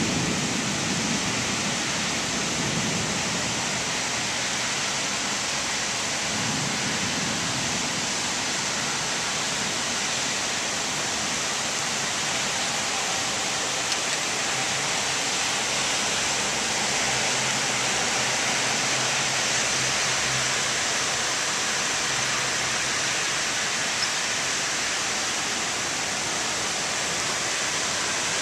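Heavy rain pouring down steadily in a thunderstorm, an even, continuous hiss. The low rumble of a thunderclap dies away in the first second.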